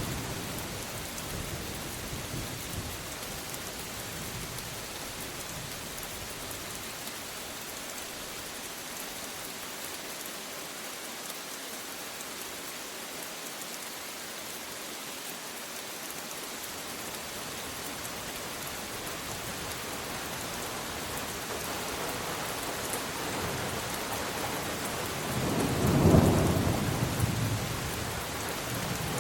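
Steady rain with thunder. A low rumble dies away over the first few seconds, then a second peal builds about three quarters of the way through, peaks near the end and rolls away.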